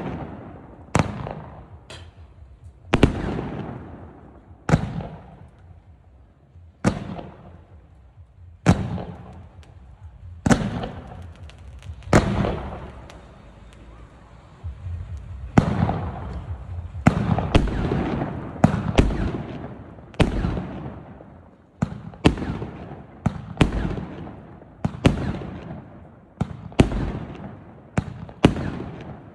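A multi-shot consumer fireworks cake firing, one shell bursting after another with sharp bangs, each followed by a trailing rumble. The shots come about every two seconds at first, then faster, with a spell of dense crackling in the middle.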